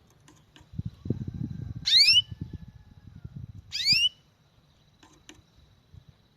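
A small cage bird gives two short, loud rising calls about two seconds apart, over a low rustling and a few light clicks.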